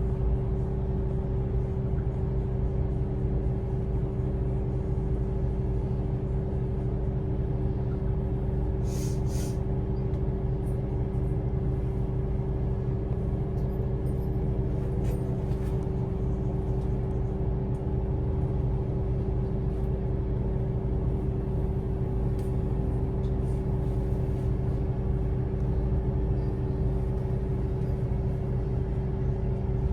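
Steady drone and rumble of a city bus heard from inside while it rides, with a short pneumatic air hiss about nine seconds in.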